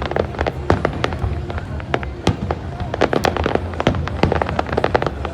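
Aerial fireworks display: a dense, rapid run of sharp bangs and crackling pops, several a second, over a steady low rumble.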